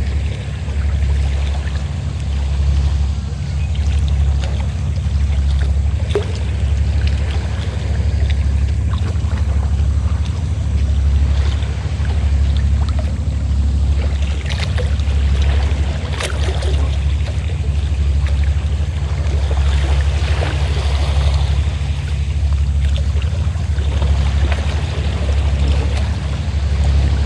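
A fishing boat's engine running steadily with an unbroken low hum, over the wash and splash of sea waves.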